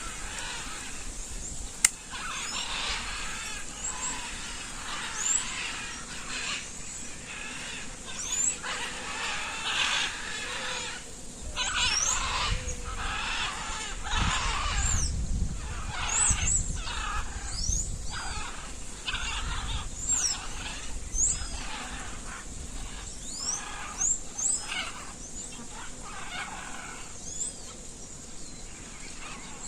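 A chorus of wild animal calls: many short rising chirps and repeated pulsing calls over a steady high-pitched drone, with a low rumble about halfway through.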